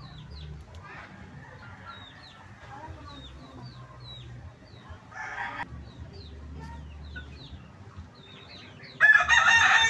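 Rooster crowing loudly near the end: one long pitched call that drops at its close. Short high chirps run throughout, and a brief shorter call comes about five seconds in.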